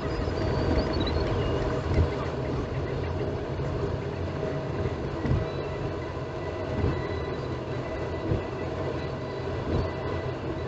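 Road and engine noise inside a moving 2018 Toyota RAV4 picked up by the dashcam's own microphone: a steady low rumble with a few short thumps from the tyres.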